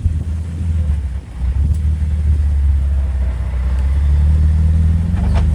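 Jeep engine running steadily at low revs while crawling along an off-road trail, with a brief creak a little before the end.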